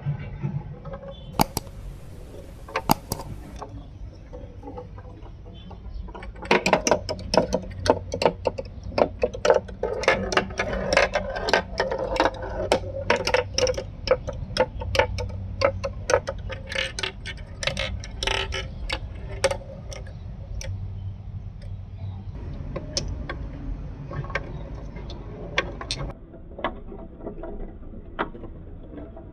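Marbles rolling and clattering down a homemade marble run: a few sharp clicks at first, a dense run of quick clicks and knocks from about six seconds in, thinning out to scattered clicks after about twenty-two seconds.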